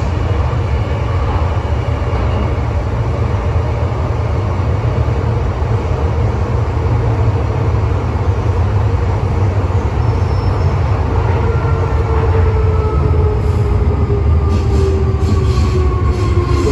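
MTR M-train electric multiple unit running between stations with a steady low rumble. From about two-thirds of the way through, a whine of several tones sets in and falls slowly in pitch as the train begins to brake: the braking 'ghost screech' (鬼叫) this car is known for.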